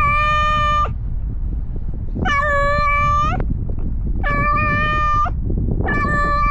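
Domestic cat meowing loudly and close, four long, drawn-out meows of about a second each, roughly two seconds apart, each holding a steady pitch and lifting slightly at the end. A steady low rumble runs underneath.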